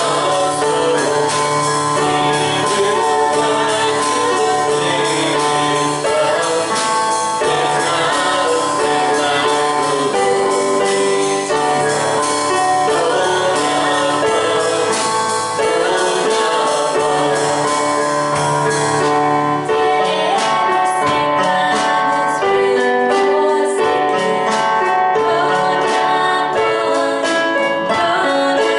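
Gospel worship song in a church service: singing, with a woman's voice among the singers, over instrumental accompaniment that plays on without a break.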